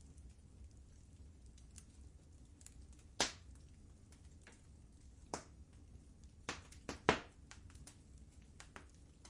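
Wood fire in a fireplace crackling: a light scatter of small ticks with a few sharp pops, the loudest a little over three seconds in and around seven seconds in, where three pops come close together.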